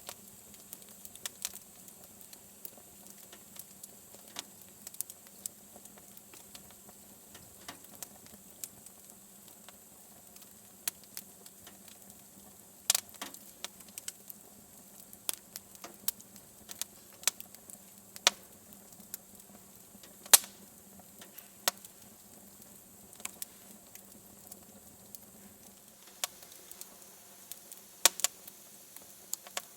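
Wood fire in a fireplace crackling with irregular sharp pops, a few much louder ones about a third of the way in, two-thirds of the way in and near the end.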